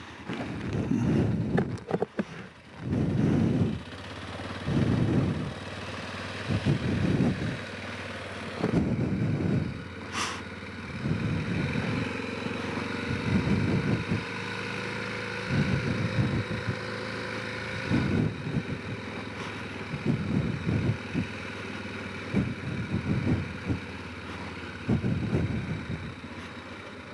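Honda Rincon 650 ATV's single-cylinder engine running at low speed while riding, with irregular low rumbling surges every second or two. There is a single sharp click about ten seconds in.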